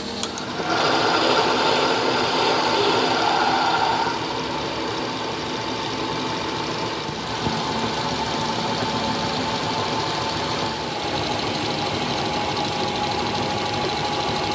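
A workshop machine running steadily with a fast, even mechanical beat. It grows louder about a second in, eases back around four seconds in and picks up slightly again midway.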